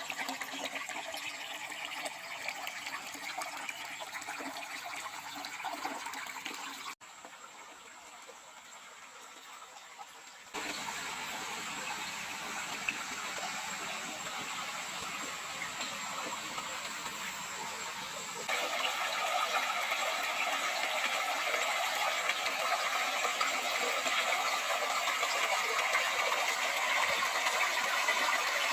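Steady rushing water, like a stream or waterfall, in several cut-together stretches: it drops quieter about a quarter of the way in, comes back a few seconds later, and grows louder again after the middle.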